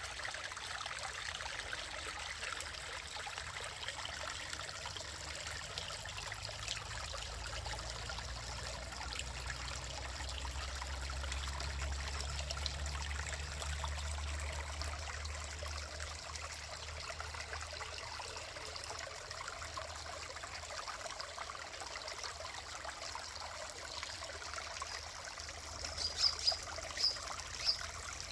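Running water flowing steadily, with a low rumble in the middle and a few short high-pitched notes near the end.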